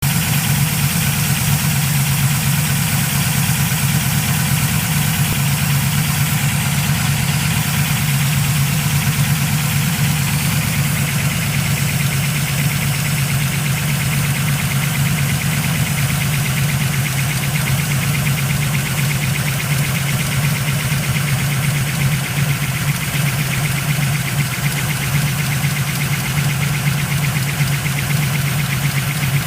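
383 small-block Chevy V8 with new AFR 195cc Eliminator aluminium heads running steadily at idle, with a tapping from the top end. The owner cannot yet identify the tap and has ruled out piston-to-valve clearance (3 mm) and pushrod length.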